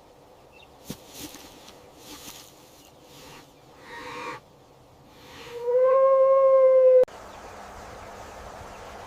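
A few short rustling noises, then an animal's drawn-out call held at one pitch for about a second and a half, cut off abruptly.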